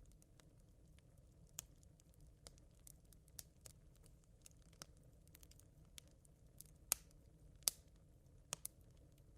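Smouldering campfire embers crackling: sparse, sharp pops and ticks at irregular intervals over a faint low rumble, with two louder pops in the second half.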